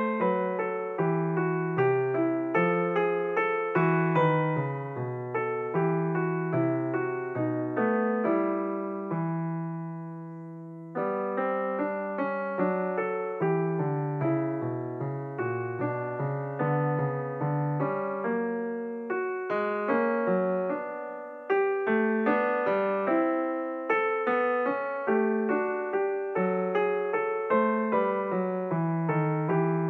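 Background piano music: a steady run of struck notes. About nine seconds in, a chord is held and left to fade, and then the playing picks up again.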